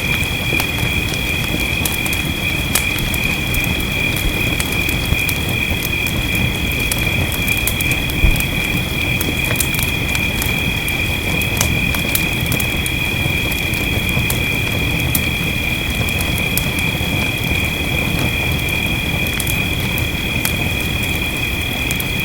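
Wood fire crackling in a fireplace, with scattered sharp pops and one louder pop about eight seconds in, over a steady wash of rain. A constant high-pitched tone runs underneath.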